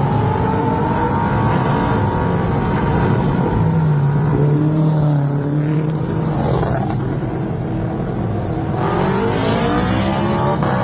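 Superbike racing engine revving hard and changing pitch through gearchanges, with the note climbing steeply near the end.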